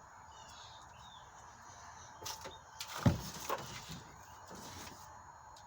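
A few soft knocks and then one loud, deep thump about three seconds in, over a quiet background.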